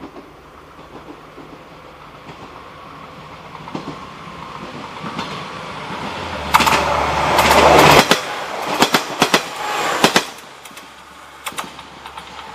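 A train approaching and passing close by, loudest about six to eight seconds in. As the cars go by, a run of sharp clicks follows from wheels crossing rail joints, and then the sound falls away.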